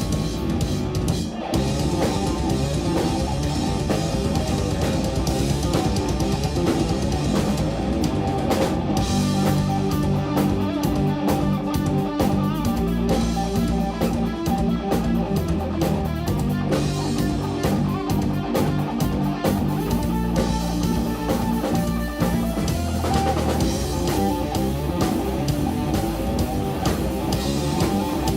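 Live band playing loud instrumental jazz-rock fusion, with electric guitar, bass and drum kit.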